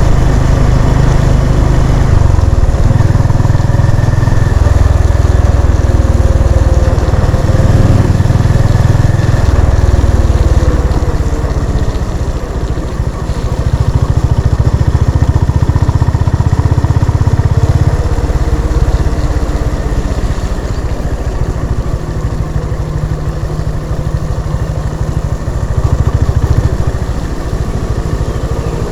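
Honda CB350 RS's single-cylinder engine running while the bike is ridden, its exhaust note rising and falling with the throttle. It gets quieter about a third of the way in as the throttle is eased.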